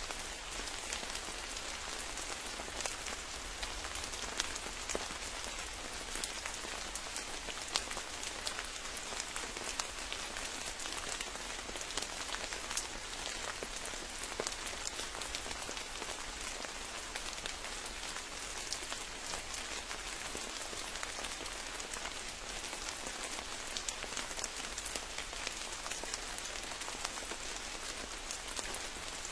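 Steady rain falling in a forest, with many individual drops striking close by as sharp ticks over an even hiss.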